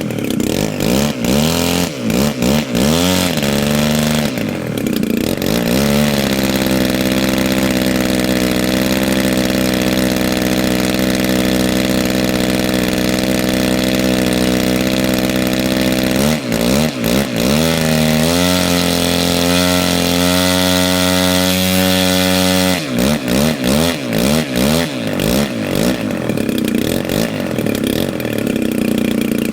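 120cc gasoline engine of a large radio-control airplane running at changing throttle. It runs unevenly at first, holds a steady high speed for about ten seconds from around six seconds in, dips and recovers, holds steady again, then runs unevenly near the end.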